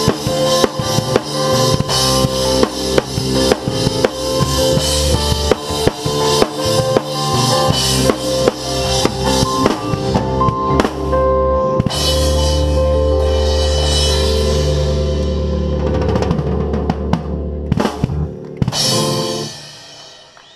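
Rock drum kit played hard in a live band: rapid kick, snare and cymbal hits over the band, then the band holds long chords under scattered hits and cymbal crashes. A last run of hits ends the song, and the sound dies away near the end.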